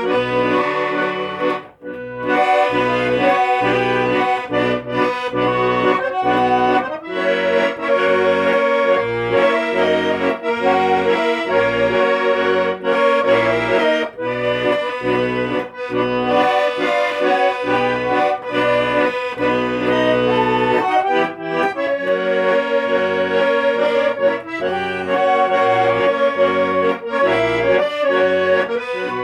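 Accordion playing a tango: a sustained melody over a steady, pulsing bass accompaniment, with a short break about two seconds in.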